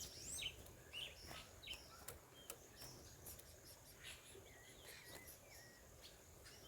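Faint bird calls: quick chirps near the start, then a few short whistled notes about four to five seconds in, over a low outdoor hiss.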